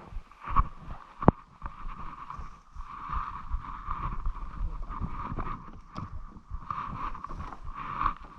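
Knocks and clatter of fishing gear being handled and loaded into a car, with a steady hum running underneath.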